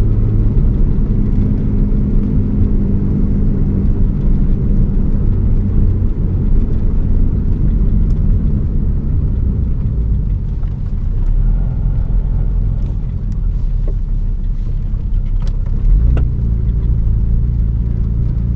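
Engine and road noise inside the cabin of a moving Mitsubishi Galant VR-4, its twin-turbo engine running steadily under way. The engine note shifts about a second in and again near the end.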